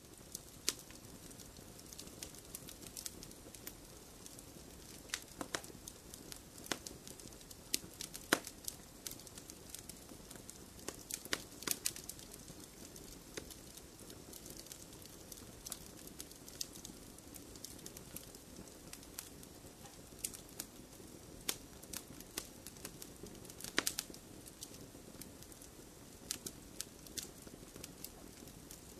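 Wood fire crackling: a steady low hiss of burning with frequent irregular sharp pops and snaps, a few louder ones scattered through.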